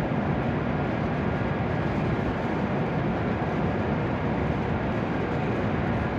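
Steady hum and rush of an E7 series Shinkansen standing at the platform with its onboard equipment running, under the station roof. The level stays even, with no doors, chimes or movement heard.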